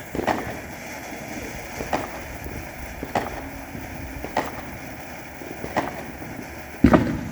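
Walking footsteps, a thump about every second and a half, with a heavier thump near the end, over a steady noisy background.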